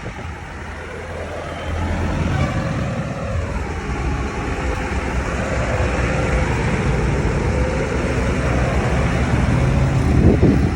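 Tractor engines running as a convoy of tractors drives past, a steady low rumble that grows louder about two seconds in. There is a brief louder sound near the end.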